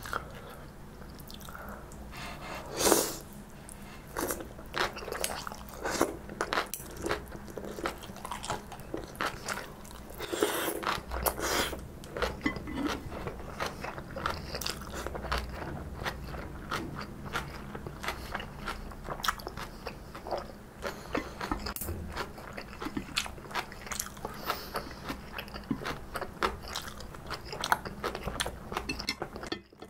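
Close-miked chewing of stir-fried kimchi: a steady run of crisp, crunchy bites and chews, the loudest crunch about three seconds in.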